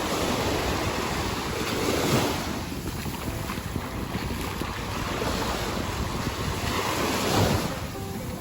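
Sea waves washing onto a beach, with wind buffeting the microphone; the surf swells about two seconds in and again about seven seconds in.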